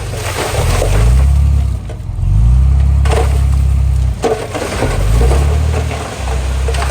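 Small Komatsu D31P bulldozer's diesel engine revving up and holding under load three times, easing off in between. Crunching and scraping of stone and soil comes over it.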